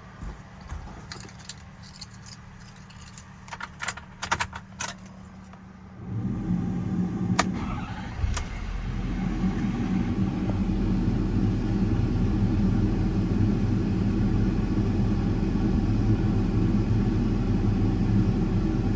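Keys jingling, then about six seconds in the 6.7 L Power Stroke V8 diesel of a 2013 Ford F-550 cranks and fires on a cold start, settling into a steady idle.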